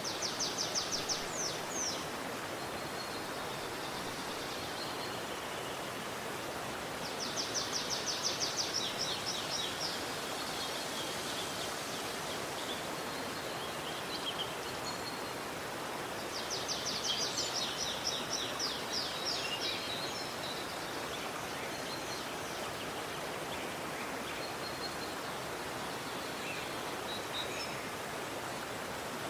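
Steady rushing of a forest stream, with a songbird singing a high, fast trilled phrase three times, near the start, about a quarter of the way in and past the halfway mark.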